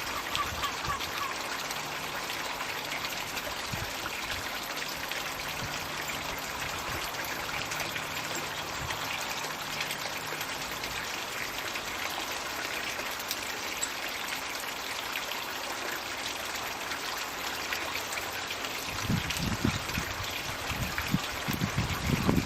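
Floating Magic Bucket pond water feature running: water pouring and trickling steadily into the pond, with a few low knocks near the end.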